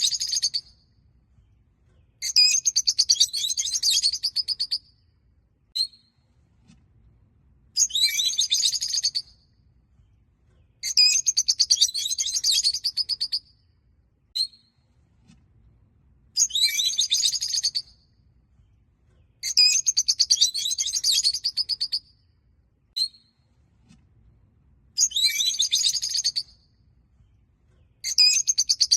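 Peach-faced lovebirds chattering in bursts of rapid, high-pitched chirps, each burst one to two and a half seconds long and a few seconds apart, with single short chirps in the gaps.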